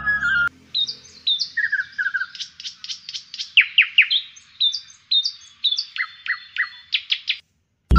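Small bird singing: a run of quick high chirps and short downward-sweeping whistled notes.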